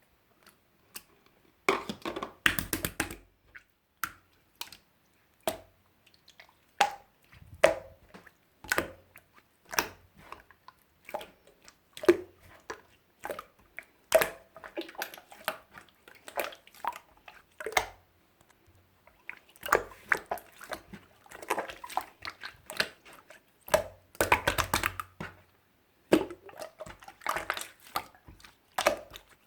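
Clear slime being squished and pressed by hand, making many sharp wet clicks and pops with bursts of crackling.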